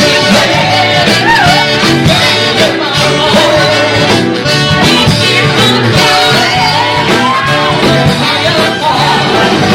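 A live band playing loud rock-and-roll style music with a sung vocal line over guitar and a steady beat.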